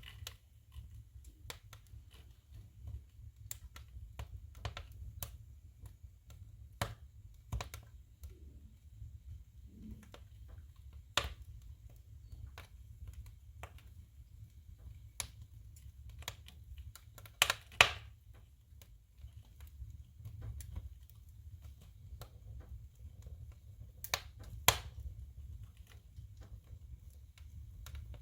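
Firewood crackling and popping as it burns in a wood stove: irregular small snaps, with a few much louder pops in pairs a little past halfway and again later, over a steady low rumble.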